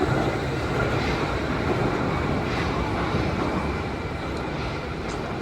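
Wuppertal Schwebebahn suspension train running, a steady rumble that eases slightly near the end.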